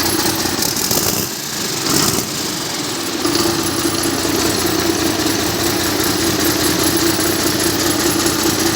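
Six-cylinder diesel engine running steadily at idle, briefly dipping a little about a second in.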